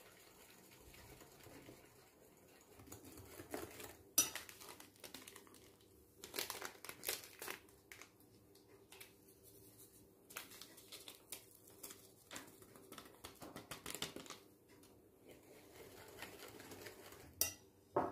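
Dishes and utensils being handled: irregular clinks and knocks, with some crinkling, over a faint steady hum.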